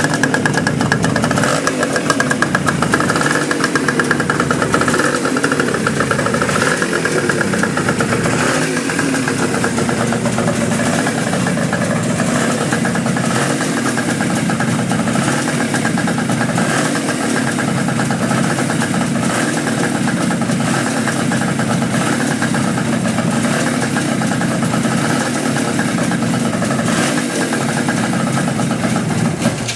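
Suzuki GT550 air-cooled two-stroke triple motorcycle engine running at idle, steady throughout. The idle is one the seller calls unstable.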